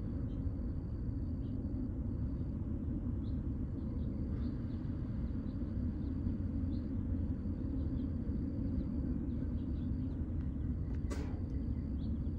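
Steady low outdoor rumble, with a thin high-pitched chirping that comes and goes above it and one sharp click about eleven seconds in.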